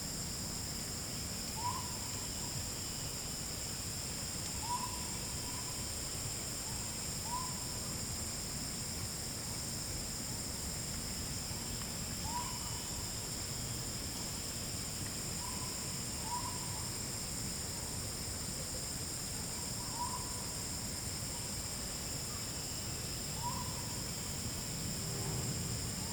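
Short hooting calls from a forest animal, repeated about every two to three seconds, over a steady high-pitched insect drone.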